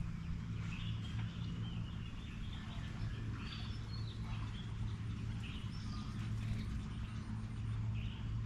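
Several birds chirping and calling in short, scattered notes, over a steady low hum.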